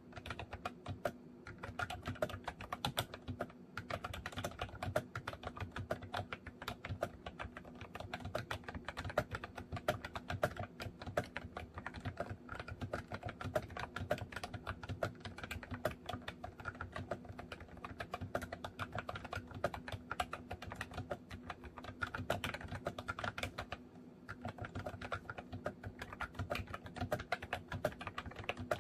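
Continuous fast typing on a MOFii Retro Style Candy keyboard: a dense run of key clicks, with a short pause near the end. A faint steady hum sits underneath.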